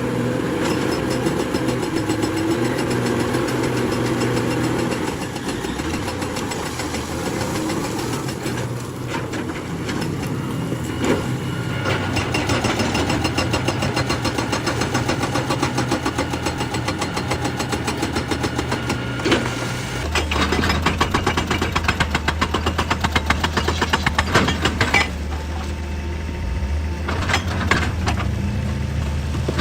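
Excavator's diesel engine running, with scattered knocks and clanks from the machine working. About two-thirds of the way through, the engine note changes to a deeper, heavier hum.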